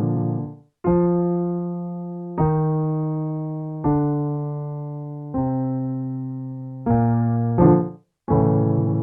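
Piano playing the pattern for a descending five-tone vocal warmup: five single notes stepping down in pitch, each struck and left to fade for about a second and a half. Near the end come a couple of quick notes, a brief gap, and a new chord.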